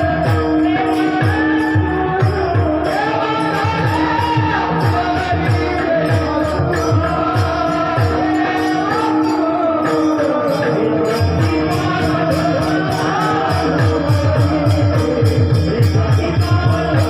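Warkari bhajan music: a voice singing a wavering devotional melody over a steady held drone, with fast drum strokes and bright metallic cymbal strikes keeping a quick rhythm.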